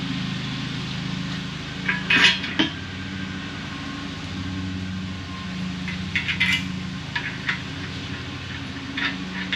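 Sharp metal clinks of bolts and hand tools against a steel sled frame: two about two seconds in, a cluster around six to seven and a half seconds, and more near the end, over a steady low hum.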